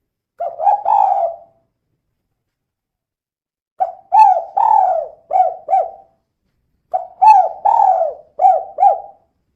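Female spotted dove (tekukur) cooing in its 'kuk 2' style: a short phrase of coos near the start, then two longer phrases of about five coos each in the second half.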